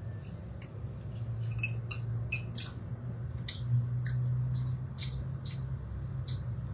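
Mouth sounds of someone eating a spoonful of stew: chewing and lip smacks, heard as a series of short, wet clicks. A low steady hum runs underneath.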